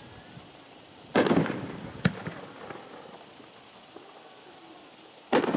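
A 3-inch, 9-shot brocade fireworks cake firing. Two loud booms come about four seconds apart, each fading off slowly. A sharp crack follows the first, and crackling follows the second.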